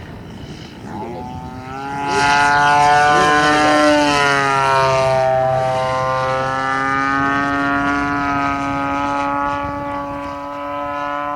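RC model airplane engine and propeller running in flight, growing loud about two seconds in and holding a steady note that drifts slightly in pitch.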